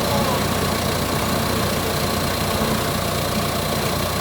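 Forklift engine idling steadily with a low, even rumble.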